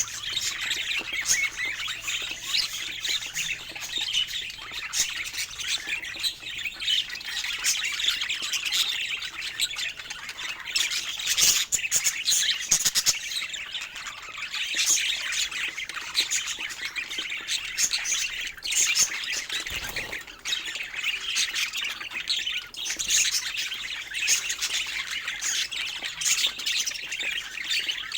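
A flock of budgerigars chattering continuously, with many overlapping chirps, warbles and harsh squawks and a few clicks.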